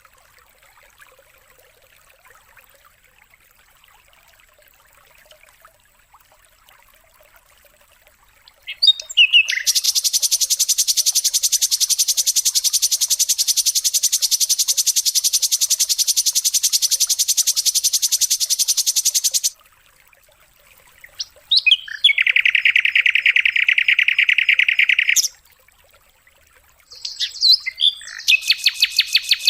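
White-rumped shama (murai batu) song: after a few quiet seconds, a few sharp notes open into a long, very fast rattling trill of about ten seconds. After a short pause comes a shorter, lower trill, and another begins near the end.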